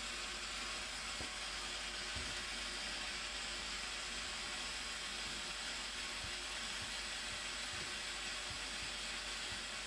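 Steady rushing water of the Blue Nile Falls, an even hiss with no change in level.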